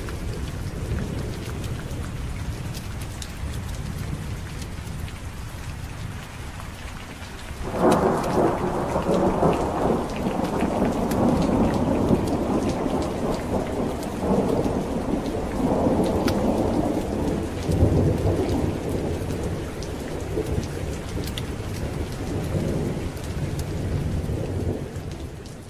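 Steady heavy rain with a low distant rumble of thunder. About eight seconds in a loud thunderclap breaks suddenly and rolls on in several swells until near the end.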